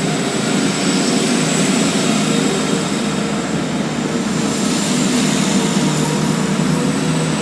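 Class 175 diesel multiple unit pulling away from the platform, its underfloor diesel engines running loud and steady under power.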